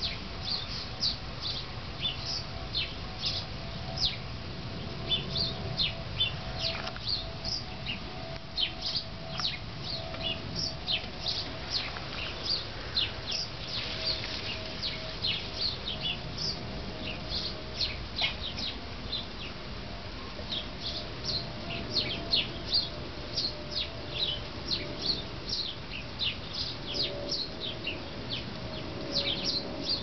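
Small birds chirping continuously, many short high chirps in quick succession.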